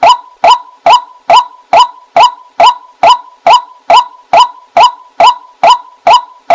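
White-breasted waterhen calls: a steady series of short, identical notes, a little over two a second, played as a lure call for decoy hunting.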